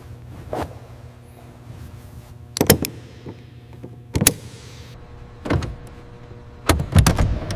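Steady low mechanical hum with about five loud, sharp knocks at irregular intervals, some in quick clusters, the loudest near the end.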